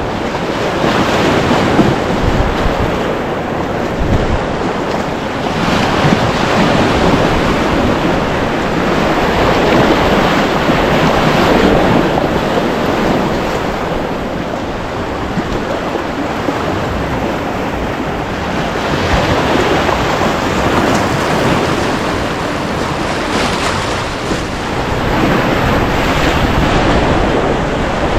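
River whitewater rushing and splashing at high flow, loud and swelling and easing every few seconds, with wind noise on the microphone.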